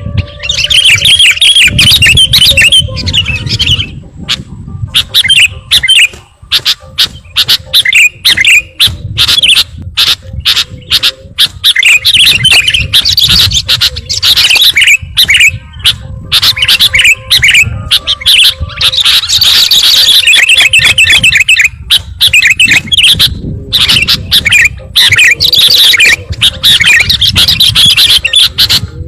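Sooty-headed bulbul (kutilang) chattering and chirping in rapid, loud runs of notes with short breaks, as used for a bird-trapping lure call.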